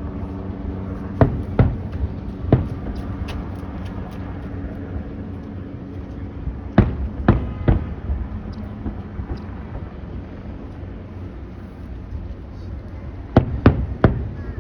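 Fireworks shells bursting overhead: three clusters of about three sharp bangs each, the first cluster followed by a brief patter of small crackles, over a steady low background rumble.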